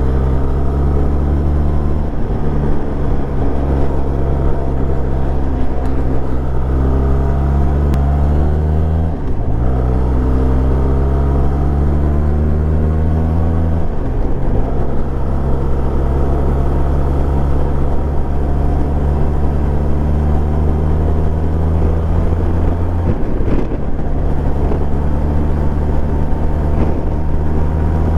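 Benelli TRK 502's parallel-twin engine running under way at a steady pace; three times its pitch briefly drops and then climbs back as the rider eases off and opens the throttle again.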